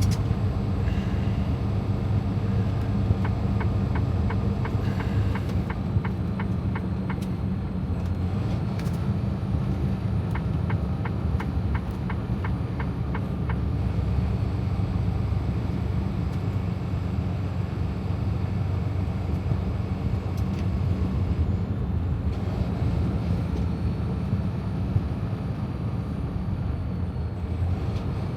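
Semi-truck engine and road noise heard from inside the cab while driving, a steady low drone. Two short runs of fast, light ticking come through it, about a third and nearly halfway in.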